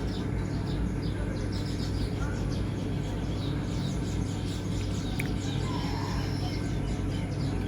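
Many small birds chirping in quick, short calls throughout, over a steady low hum.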